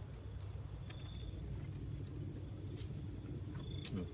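Steady low rumble with insects trilling in a constant high tone over it, and a few faint clicks.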